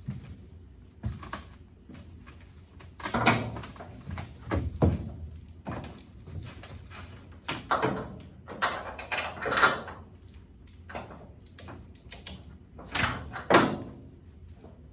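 Irregular knocks and clanks of metal being handled, some with a short scraping rattle, coming in clusters with the loudest a few seconds in, around the middle and near the end.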